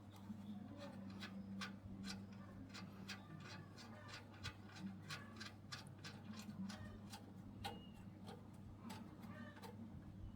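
Faint, irregular light clicks and taps, several a second at uneven spacing, over a low steady hum.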